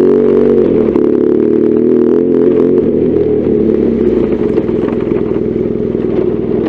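BMW R1200GS Adventure's boxer-twin engine running steadily under way, its pitch dipping briefly about a second in and then holding.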